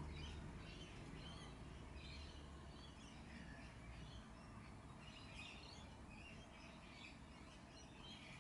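Faint chirping of small birds, scattered short calls over quiet room tone.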